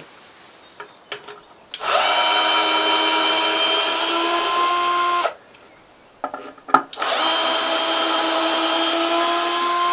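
Cordless drill-driver run twice, each time for about three seconds with a steady whine, backing out the screws that hold wooden concrete formwork boards. There is a sharp knock between the two runs.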